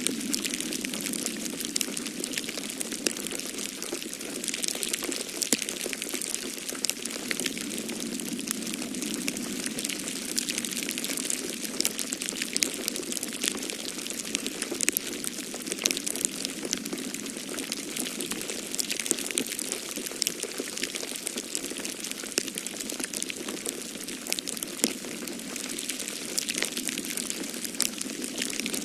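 Wood fire in a fireplace crackling, with many small sharp pops scattered over a steady rushing of snowstorm wind.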